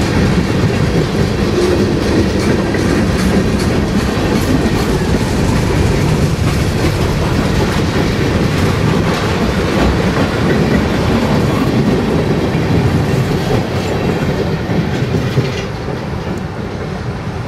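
Freight train's tank cars and covered hoppers rolling past: a steady rumble of steel wheels on rail with scattered clicks. It fades away near the end as the last car goes by.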